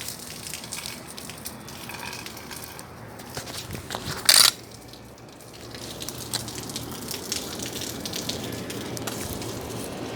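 Bonfire burning with scattered crackles and pops, and a loud burst of noise lasting under half a second about four seconds in.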